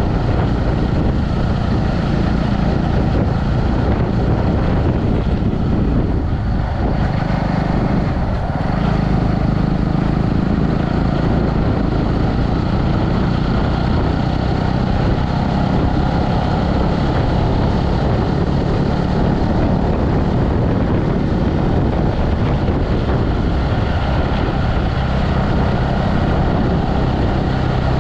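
Motorcycle engine running under way with wind rushing over the microphone, steady throughout; the engine note eases briefly about six seconds in and picks up again about two seconds later.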